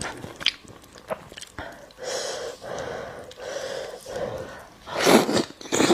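Close-miked eating sounds: a person chewing food with loud breaths and sniffs through the nose, and a louder noisy burst about five seconds in.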